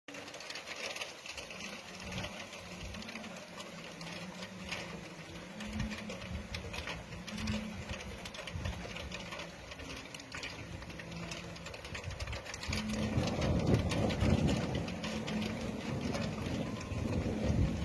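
Rain falling with an irregular patter of drops; a low thunder rumble builds about thirteen seconds in.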